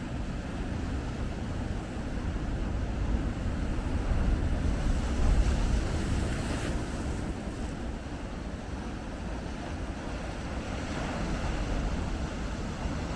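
Big ocean waves breaking, with wind rumbling on the microphone; a surge swells a few seconds in and falls back to a steady wash.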